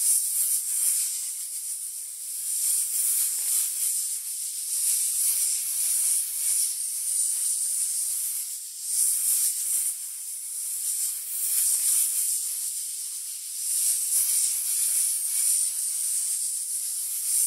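Snake hissing: a continuous high, airy hiss that swells and eases every few seconds.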